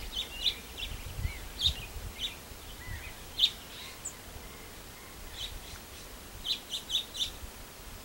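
Birds calling from a tree: scattered short, high chirps, with four quick ones in a row near the end.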